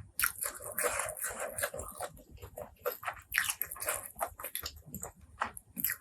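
Close-miked eating: chewing with a quick, irregular run of wet mouth clicks and short noisy smears.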